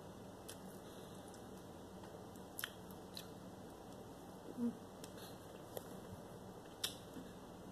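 A person quietly chewing banana bread dunked in coffee, with a few soft clicks scattered through and one short low voice sound about halfway through.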